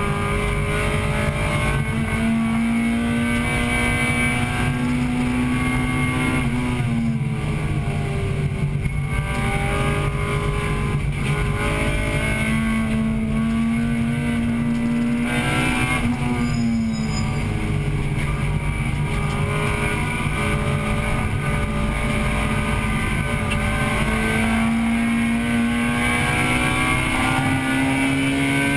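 1998 Acura Integra Type-R's four-cylinder VTEC engine heard from inside the car under race load, with wind and road noise. The engine note climbs slowly, then drops sharply three times: about 7 seconds in, about 16 seconds in, and at the end.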